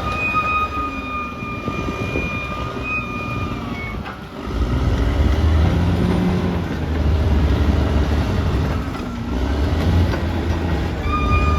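Caterpillar D6R XL bulldozer's diesel engine working, with a high steady squeal for the first few seconds. About four and a half seconds in, a heavy low rumble swells up, the engine taking load as the dozer pushes.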